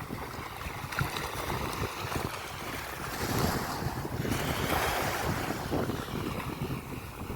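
Sea waves washing onto a beach, one wave swelling louder mid-way and then receding, with wind buffeting the microphone.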